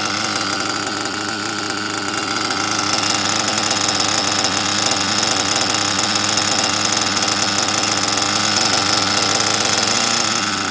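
Nitro RC buggy engine with a tuned exhaust pipe running steadily at a warm, tuned idle.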